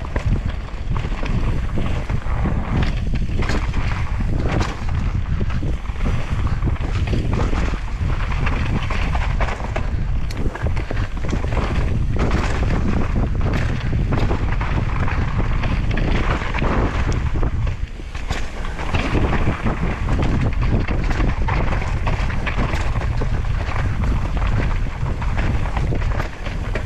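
Downhill mountain bike, a 2023 Devinci Chainsaw, ridden fast down a trail: wind rushing over the microphone under tyre noise on dirt, with frequent sharp knocks and rattles from the bike over rough ground.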